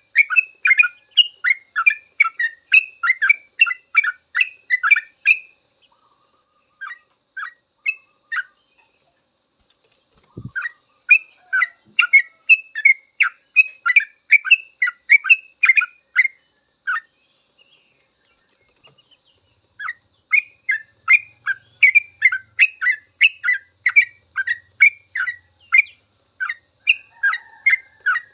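Yellow-vented bulbul singing its rapid chattering 'ropel' song: quick runs of short bright notes, about three a second, in long phrases broken by pauses of a few seconds. A single low thump about ten seconds in.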